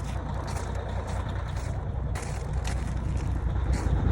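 Caterpillar C15 heavy-truck diesel engine idling cold just after a frozen-morning start, running rough, with irregular sharp clicks over the steady low engine note.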